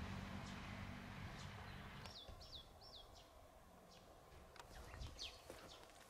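Wild birds calling: three quick downward-sliding chirps a little over two seconds in, and another falling call about five seconds in. A low steady hum fades out about two seconds in.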